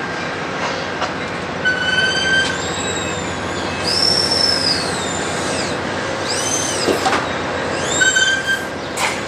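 Train rolling past with steady wheel-on-rail noise, its wheels squealing in several high-pitched screeches that rise and fall in pitch, beginning a couple of seconds in and recurring every second or two.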